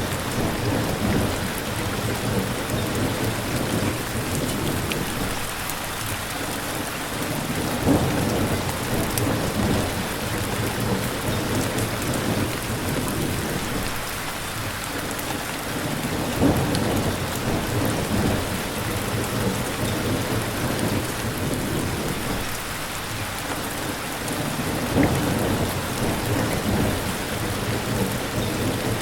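Steady rain falling. Low rumbles of thunder swell up three times at even spacing, about eight seconds apart, each starting sharply.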